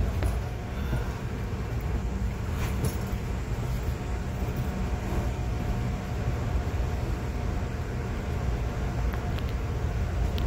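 Steady low rumble of a moving passenger train heard from inside the coach, wheels running on the rails, with a few light clicks and a faint thin whine.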